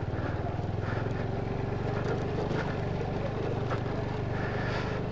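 Motorcycle engine running steadily with a low, even pulse.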